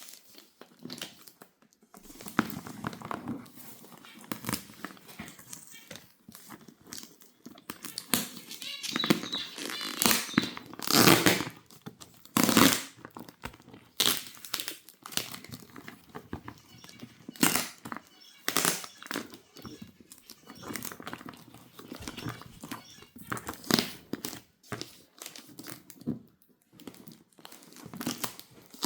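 Packaging being unwrapped by hand: irregular crinkling, rustling and tearing of wrapping material in quick bursts, loudest around the middle.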